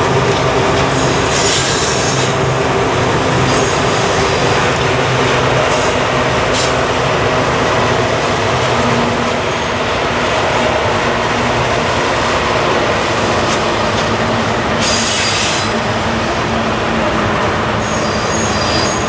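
CSX diesel locomotives hauling a double-stack container train pass close by, engines running over a steady rumble of wheels on rail. High-pitched wheel squeal breaks in briefly about two seconds in and again around fifteen seconds.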